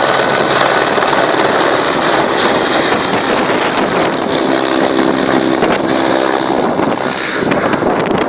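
Helicopter close by, its rotor and engine making a loud, steady noise, with a pitched hum rising out of it for a couple of seconds in the middle.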